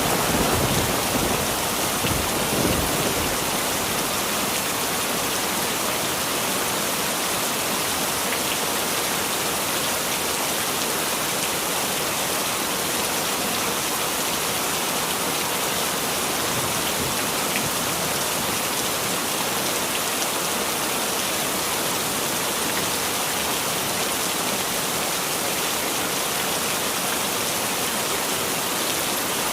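Heavy rain falling steadily, a dense even hiss of drops. In the first few seconds the last of a thunder rumble dies away.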